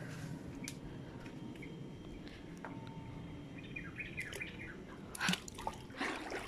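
Small birds chirping, a quick run of short high chirps a little past halfway, over a low steady outdoor background. A few louder knocks or scuffs near the end.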